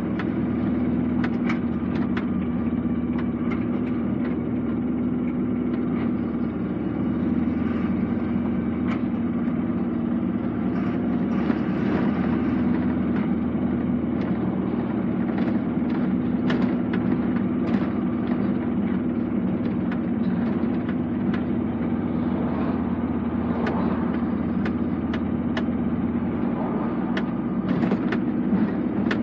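Lorry's diesel engine and road noise heard from inside the cab while driving: a steady drone, with scattered small clicks and rattles.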